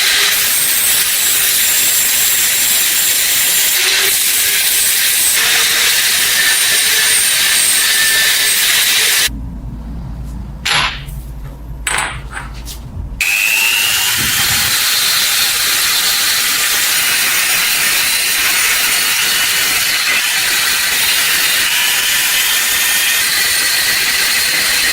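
Power tool abrading steel, a loud steady hiss with a thin whine over it. A little before the middle it gives way for about four seconds to a low hum and a few clicks, then starts again.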